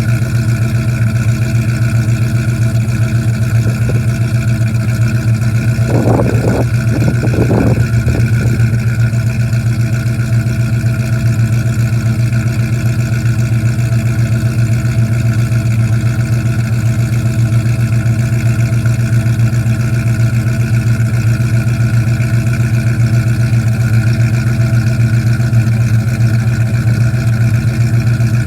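Cammed GM 5.3-litre V8 running steadily at idle just after a cold start.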